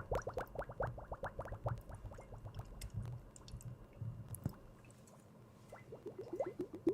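Foley liquid sounds: a quick run of short, rising plops like bubbles in water. They thin out and grow quieter in the middle, then pick up fast again near the end.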